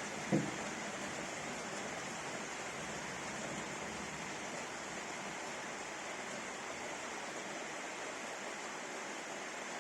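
Steady rain from a thunderstorm downpour, an even hiss throughout, with one brief thump a few tenths of a second in.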